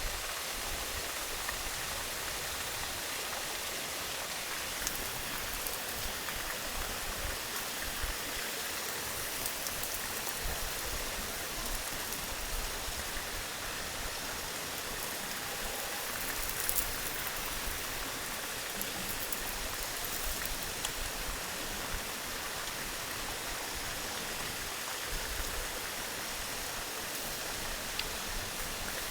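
Steady rushing noise of running water, with an occasional faint pop or crackle.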